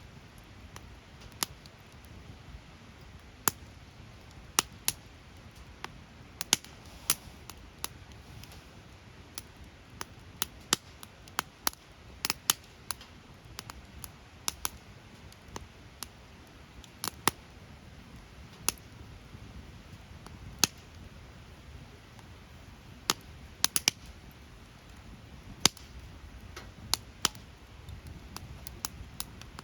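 Wood fire crackling: irregular sharp pops and snaps at uneven intervals over a steady low rush of burning.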